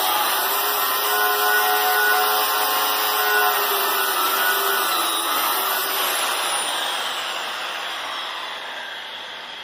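Angle grinder with a flap disc grinding paint off a steel plate; the paint is gumming up the disc. About halfway through the grinder is let off and winds down, its pitch falling and the sound fading out.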